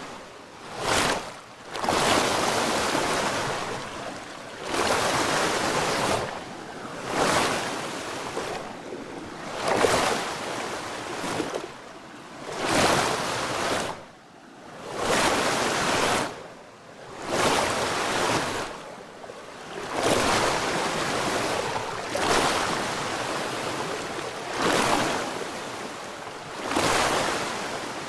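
Small waves washing in and drawing back, one surge of water every two to three seconds with short lulls between.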